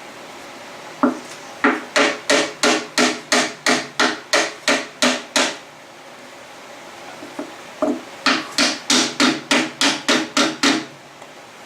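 Two runs of hammer blows, about three a second, driving a cylinder sleeve down into an International Harvester 354 tractor's engine block. Each strike is sharp and rings briefly. The blows seat the sleeve and its greased O-rings in the block.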